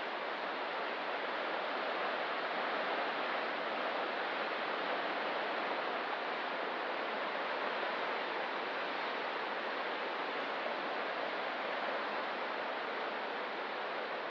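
Steady wash of ocean surf, an even rushing noise with only a slight swell in level and no distinct breaking crashes.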